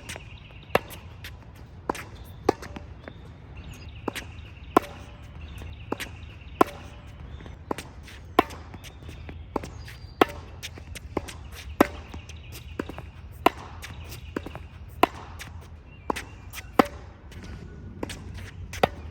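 Tennis ball struck by racket strings in a volley exchange, a sharp pop roughly once a second, some hits louder than others.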